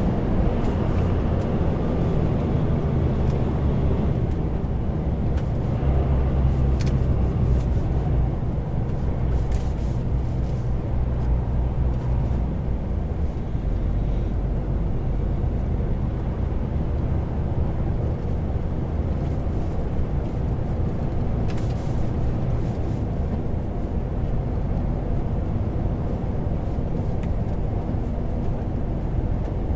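Heavy truck's diesel engine running under way, with road and tyre noise, heard from inside the cab. The engine note shifts about a third of the way in, and there are a few faint ticks.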